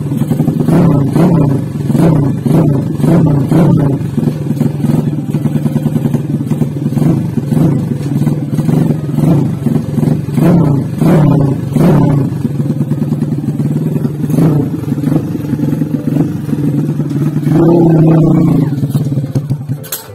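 Rebuilt 239cc two-valve single-cylinder engine of an XRM underbone dirt bike running after a crankshaft repair, revved in short blips about once a second with a longer rev near the end, then cutting off abruptly.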